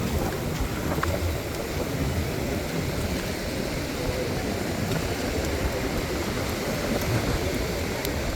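Steady low rushing of ocean surf on a beach, mixed with wind buffeting the microphone.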